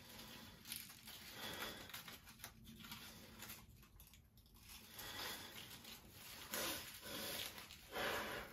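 Faint, irregular rustling and tearing of paper as cut-out paper shapes are handled and cut, with a louder burst near the end.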